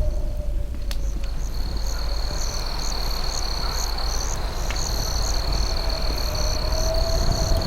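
Night insects: a steady high cricket trill, with another insect chirping in quick even pulses above it, over a constant low rumble. Two faint pops, about one and five seconds in, fit a crackling campfire.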